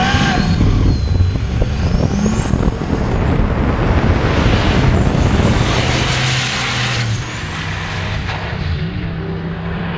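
Turbocharged 408 Windsor stroker V8 in a Fox-body Mustang at full throttle on a drag pass. A high turbo whine climbs and drops back three or four times as the car runs up through the gears. The sound eases off about seven seconds in.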